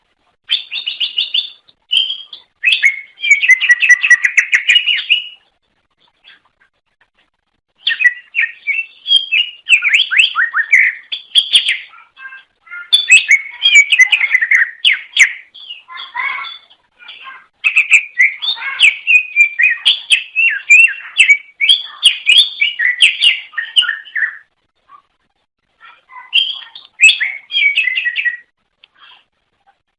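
Greater green leafbird (cucak ijo) singing: loud, rapid, varied chirps and whistled notes in bursts of several seconds, broken by short pauses.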